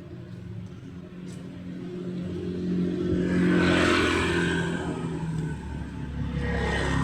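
A motor vehicle passing close by: engine hum and tyre noise swell to a peak about halfway through and fade away. A second vehicle approaches near the end.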